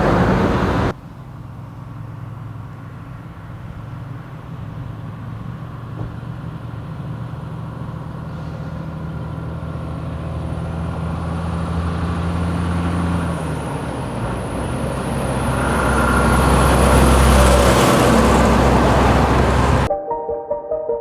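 Heavy truck's diesel engine running steadily, then growing louder over several seconds near the end, as if it is pulling past. About a second in, a louder vehicle sound cuts off abruptly.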